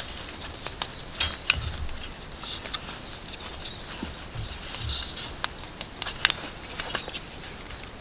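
A small bird repeating a short, high, falling note about two to three times a second, mixed with scattered sharp clicks and a few soft low thumps.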